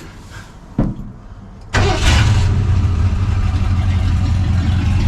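1985 Ford F-250's carbureted engine, air cleaner off, started on the key. A short thump about a second in, then the engine fires abruptly near two seconds in and keeps running steadily.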